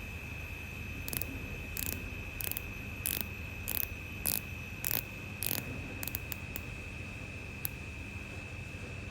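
A series of short, sharp clicks, about one every two thirds of a second and then a few quicker ones, over a steady high-pitched whine and a low hum.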